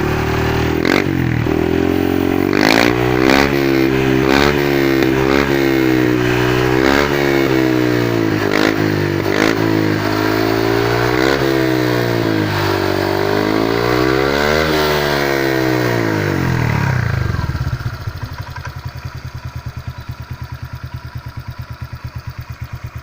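Honda Vario 125/150 scooter's single-cylinder four-stroke engine breathing through an aftermarket full stainless-steel Stugiki exhaust, revved in repeated blips with a few sharp cracks among them. After about 17 seconds it drops back to a steady, pulsing idle.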